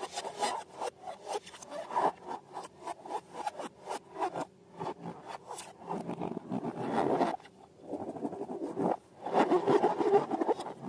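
Rubber balloons and slime being handled up close: a quick run of small clicks and crackles, with longer, louder rubbing stretches about six seconds in and again near the end.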